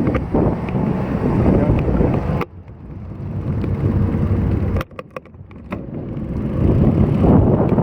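Gusty typhoon wind buffeting an action camera's microphone as a road bike is ridden, a heavy low rumble. It drops away sharply about two and a half seconds in and again near five seconds, then builds back up.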